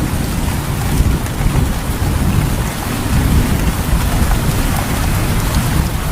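Steady heavy rain with a continuous low rumble of thunder.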